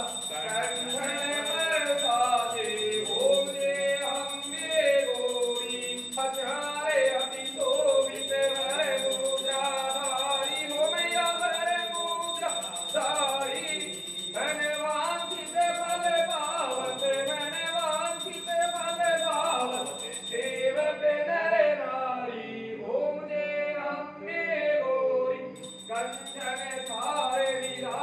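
Hindu devotional aarti being sung, with melodic voices over music that carries a light jingling accompaniment.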